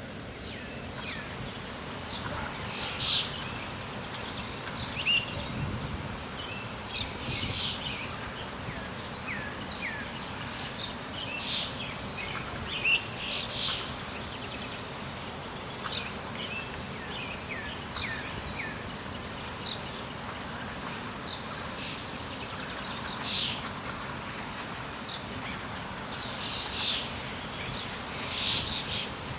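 Several birds chirping and calling, short quick calls overlapping one another, over a steady background hiss.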